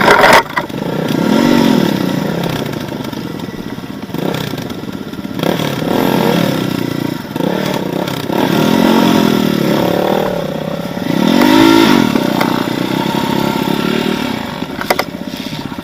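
Off-road motorcycle engine revving up and down over and over as the bike is ridden through rough terrain, with occasional sharp knocks and clatter.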